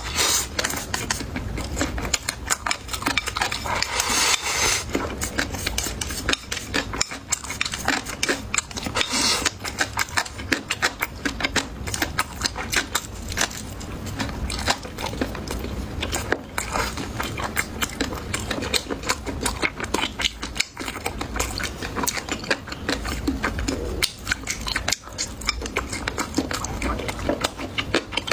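A person eating close to the microphone: continuous chewing and biting, heard as a dense run of small clicks.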